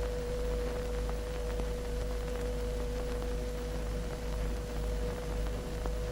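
A single steady tone held for several seconds without changing pitch, over the hiss and low hum of an old film soundtrack.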